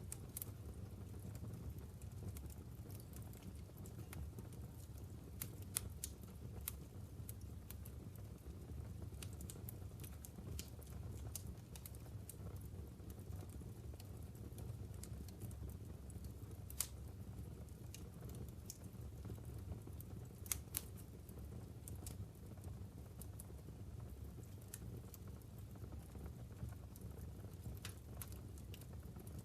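Logs burning in a wood fireplace: a low steady rumble of the fire with scattered sharp crackles and pops, a few clustered around the middle of the stretch.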